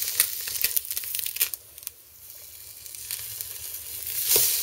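Egg-soaked bread frying in a non-stick pan, sizzling, with a spatula scraping and clicking under the slice for the first second and a half. The sizzle drops low for a moment, then builds and flares loudly near the end as the slice is flipped onto its uncooked side.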